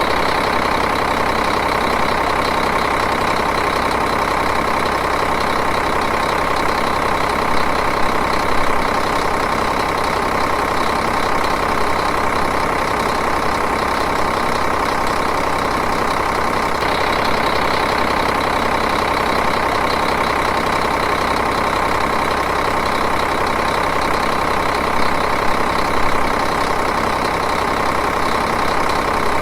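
Diesel engine idling steadily, an even running sound with no change in speed.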